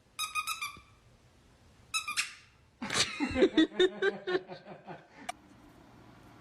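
A pet's high-pitched cries: a few short ones, then a longer wavering run about three seconds in.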